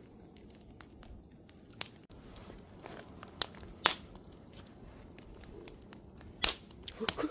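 Wood campfire crackling: scattered sharp pops and snaps over a low steady hiss of burning, with the loudest pops about two, four and six and a half seconds in.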